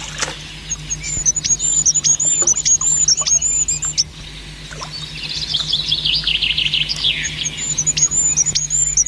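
Songbirds singing: a high, quickly repeated chirping phrase that gives way around the middle to a rapid twittering, then the chirping returns near the end.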